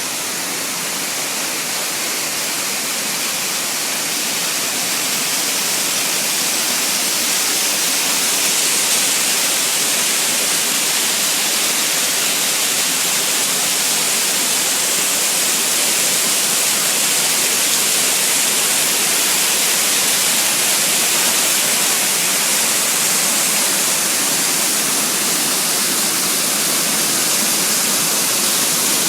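Waterfall: water falling steadily in a constant, even rush.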